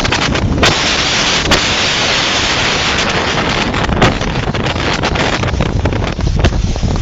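Strong storm wind gusting and buffeting the microphone, a loud rushing roar with heavy low rumble that swells between about one and four seconds in. A few sharp knocks cut through it.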